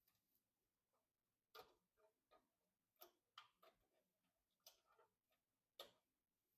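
Faint, irregularly spaced small clicks and light taps, about eight of them, from PC components and hardware being handled and fitted.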